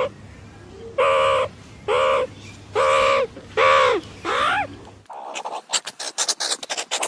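A bird giving a run of about six loud, harsh calls, roughly one a second, several dropping in pitch at their ends. After that comes about two seconds of rapid, irregular clicking.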